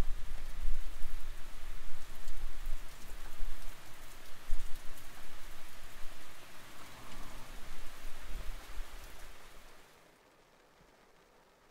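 Steady rain falling, with fine patter of drops and gusts of wind rumbling on the microphone; it cuts off suddenly near the end.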